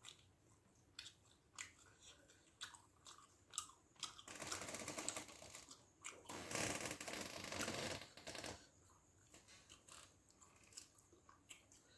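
A person eating rice and fish gravy by hand: chewing, with short wet clicks and smacks, and a louder stretch of mixing and mouthing from about four seconds in to past eight seconds.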